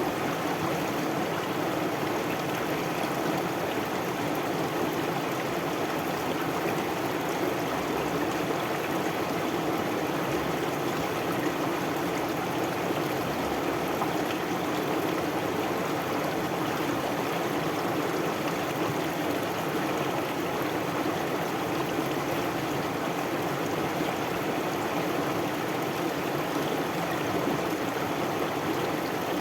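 Stream water flowing and babbling steadily, an even rushing sound.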